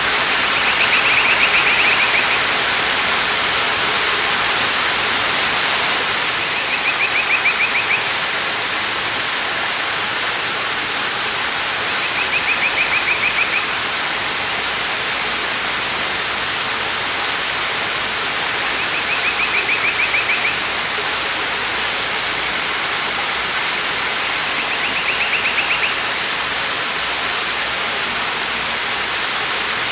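Waterfall: a steady rush of falling water. Over it, a short high trill of rapid pulses, about a second and a half long, repeats every six seconds or so, five times.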